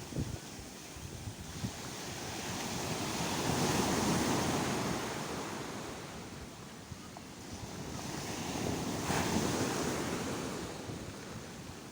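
Sea waves breaking on the shore, the surf swelling and fading twice, loudest about four seconds in and again near nine seconds, with a low wind rumble on the microphone.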